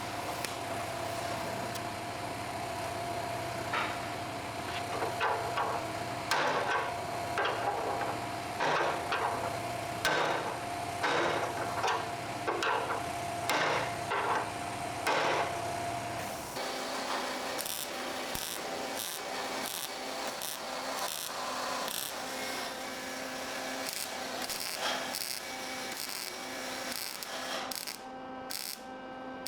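Rasping strokes of a hand tool worked on steel, about one a second, over a steady hum; about halfway through the hum stops and lighter scrapes and clicks follow.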